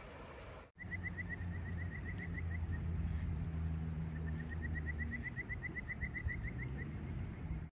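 An animal calling in quick trains of short rising chirps, about seven a second, twice, over a low steady hum.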